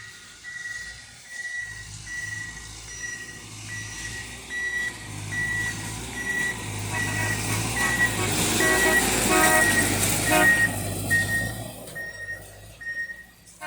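A rail maintenance vehicle passing on the track, its running noise swelling to a peak about two-thirds of the way through and then fading. Steady electronic warning beeps sound about twice a second throughout.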